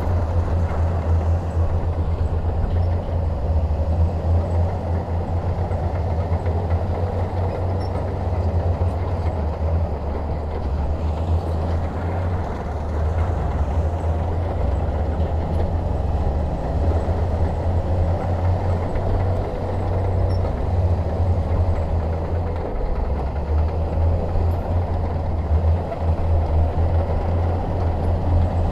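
Heavy diesel bulldozer engine running steadily with a deep, continuous drone.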